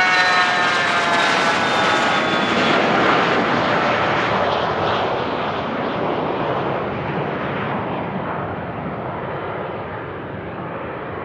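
Business jet going past: its turbine whine drops in pitch as it passes in the first few seconds, leaving a broad jet roar that slowly fades away.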